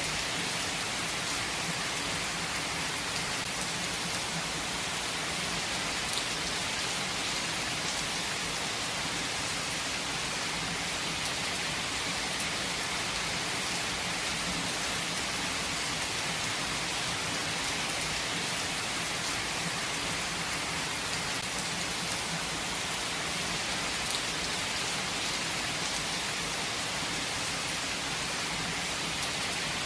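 Steady rainfall, an even hiss of rain on the ground and leaves with scattered individual drops.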